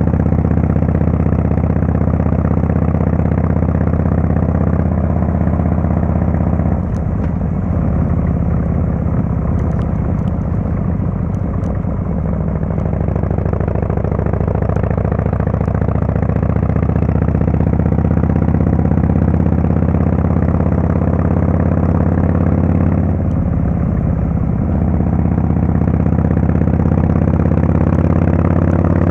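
Harley-Davidson Fatboy S's Screamin' Eagle Twin Cam 110 V-twin running through a Kesstech valve exhaust at a steady pace. The note breaks up briefly twice, and it rises in pitch near the end as the bike accelerates.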